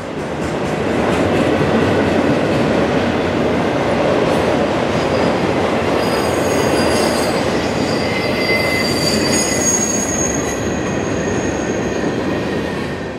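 Manifest freight train's cars rolling past with a steady rush of steel wheels on rail. Thin, high wheel squeal comes and goes through the middle.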